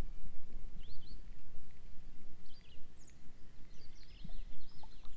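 Small birds chirping in short calls a few times over a steady low rumble, like wind on the microphone.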